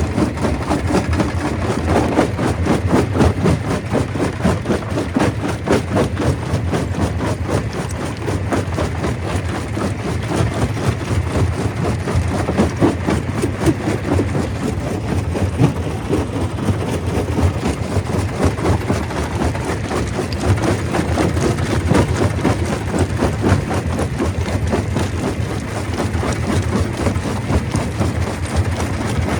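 Stone crusher running steadily, with a dense, continuous clatter of rock over a low mechanical rumble.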